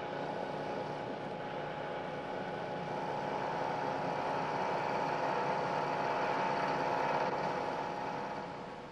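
Milling machine running, its cutter machining a flat face on a steel part: a steady machine whine with cutting noise. It grows louder over the middle and fades near the end as the cut finishes.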